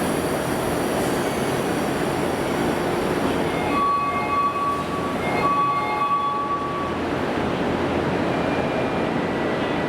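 Subway train running through an underground station: steady loud rumble and rail noise, with a high, steady tone from about four to seven seconds in, broken briefly partway.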